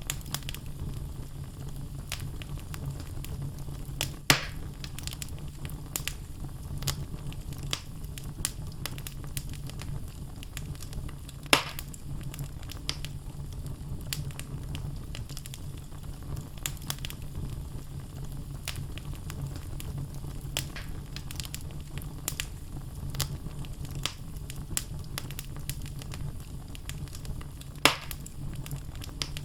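Wood logs burning in a fireplace, crackling steadily over a low rumble, with three loud sharp pops: about four seconds in, about twelve seconds in, and near the end.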